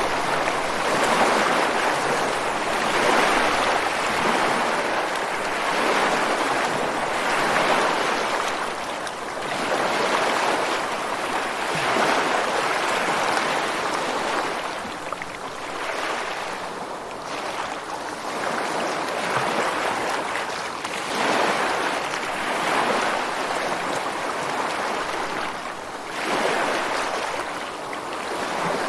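Ocean surf breaking on a beach and rocks: a continuous rushing wash that swells and eases every few seconds as each wave comes in.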